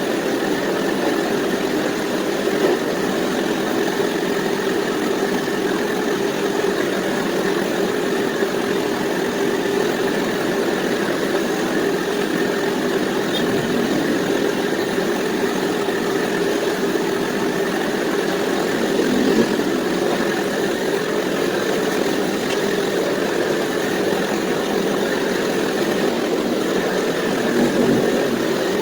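An engine idling steadily, holding one even speed throughout.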